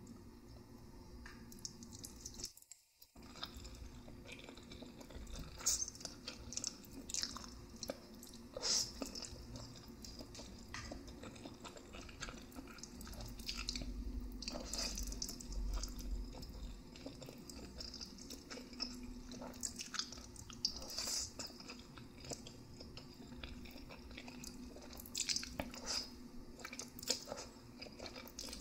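Close-miked chewing of noodles, with irregular wet mouth clicks and smacks. A faint steady hum lies under it, and there is a brief silent gap about three seconds in.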